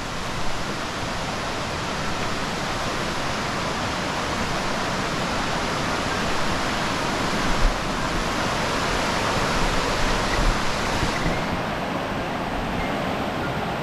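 Stairs Falls, a cascading mountain waterfall, rushing steadily up close, with a brief low bump about eight seconds in.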